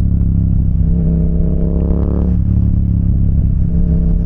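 Yamaha motorcycle engine running under way, with a steady low rumble. About a second in, its pitch climbs as it is revved, then drops off sharply a little past halfway.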